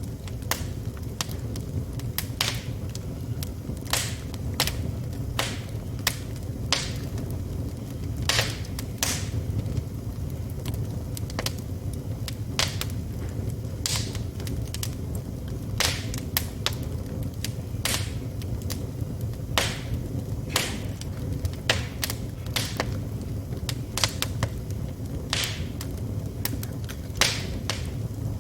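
Wood fire crackling in a fireplace: irregular sharp pops and snaps, sometimes several in quick succession, over a steady low rumble.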